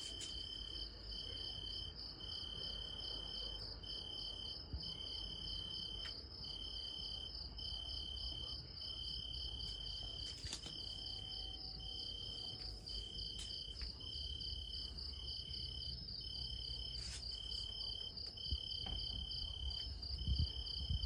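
Crickets chirping: one sings in short trills repeating about twice a second while another keeps up a continuous, faster, higher chirping, over a low rumble of background noise.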